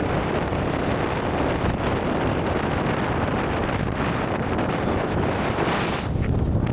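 Strong blizzard wind blowing hard across the microphone in a steady, dense rush. Near the end the hiss drops away and it turns to a lower buffeting rumble.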